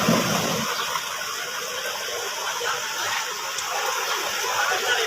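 Floodwater rushing and gushing in a steady noise; a brief low sound is heard right at the start.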